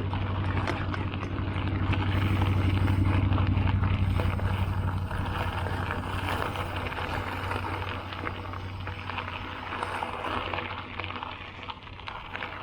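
Priority Sauce single-speed gravel bike's tyres rolling over a dirt road: a steady rumble with dense crunching and rattling, loudest a few seconds in and easing off near the end.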